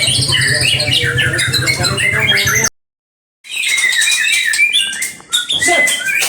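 Caged songbirds singing in dense, overlapping chirps and rapid trills, over a low steady hum. About two and a half seconds in, everything cuts out for under a second, then the birdsong resumes without the hum.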